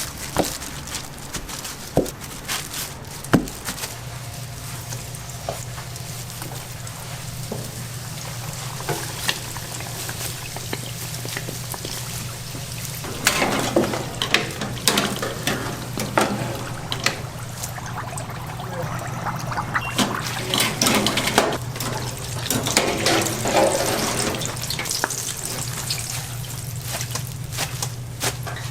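Water running and splashing in a kitchen, coming in irregular spells from about halfway through, over a steady low machine hum. A few sharp clicks come in the first few seconds.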